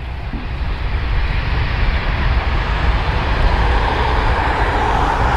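Jet airliner's engines running, a steady rushing noise with a low rumble that grows louder over the first few seconds.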